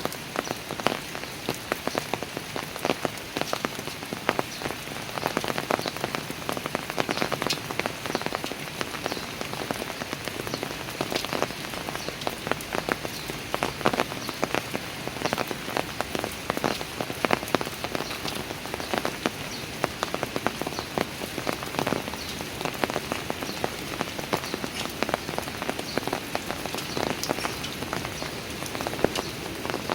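Steady rain falling, with many individual drops tapping close by in a dense, irregular patter.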